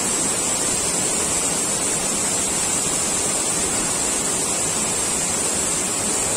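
Waterfall rushing steadily: a constant, even noise of falling water, with a steady high hiss on top.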